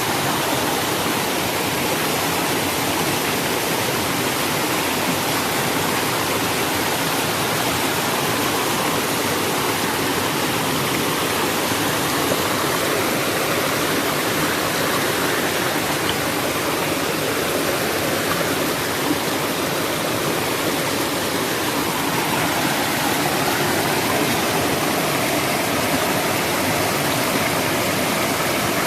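Steady rushing of a waterfall and river water.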